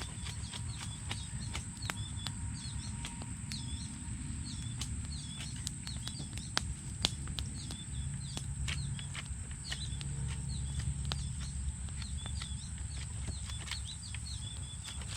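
A bird calling over and over, the same short chirping figure repeated every second or so. Under it run scattered sharp clicks, a steady high tone and a low rumble.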